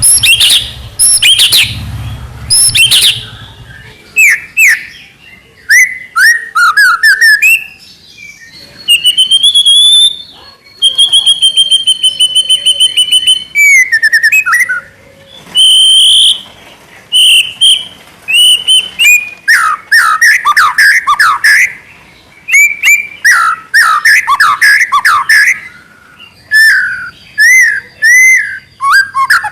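White-rumped shama singing loud, varied phrases of clear whistles, quick warbles and fast runs of rapidly repeated notes, with short pauses between phrases.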